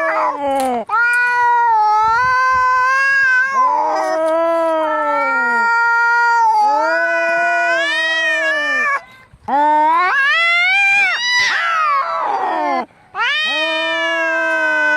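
Angry cats caterwauling in a fight: long, drawn-out yowls that rise and fall in pitch, one after another with short breaks, and two voices overlapping a little past the middle.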